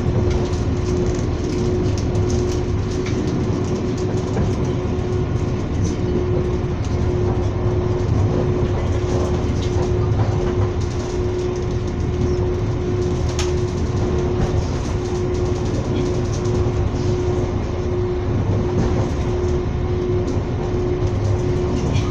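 Passenger train running along the line, heard from on board: a steady rumble of wheels on rails with one steady hum over it and occasional sharp clicks, one sharper than the rest about two-thirds of the way through.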